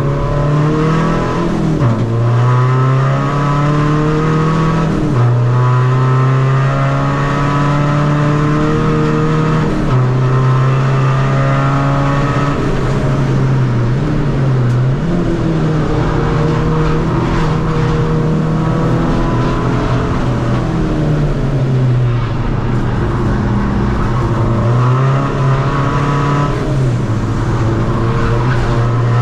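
Tuned 2.0 common-rail diesel engine of a Seat Ibiza FR running hard on a race track. Its pitch holds, then dips and jumps several times as the driver changes gear and comes on and off the throttle through the corners.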